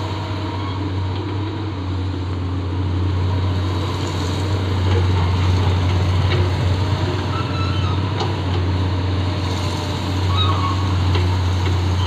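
Excavator's diesel engine running steadily, a low even drone, with a few faint short chirps over it.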